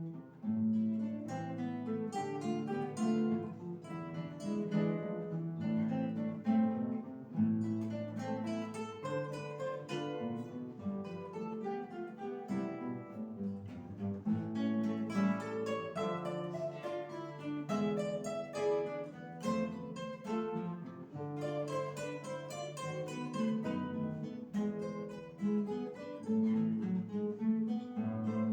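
An acoustic guitar ensemble playing, with several guitars plucking melody and accompaniment together in a continuous flow of notes.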